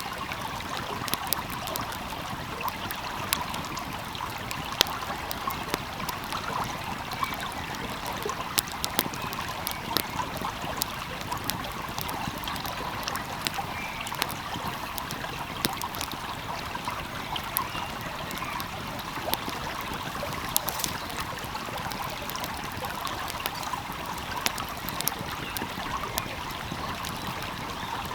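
A flowing stream's steady rushing, with frequent small crackles and pops of a wood fire throughout.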